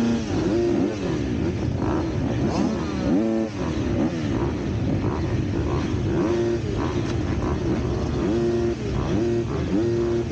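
Four-stroke KTM SX-F motocross bike engine revving hard, its pitch rising and falling over and over as the throttle opens and closes and the gears change, with brief steady stretches between.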